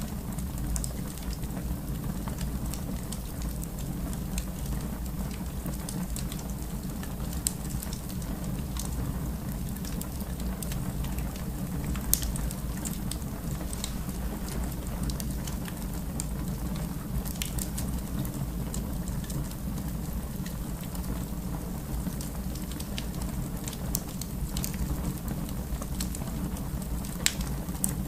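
Fire crackling in a fireplace: a steady low rumble of flame with scattered sharp pops and snaps, a few of them louder.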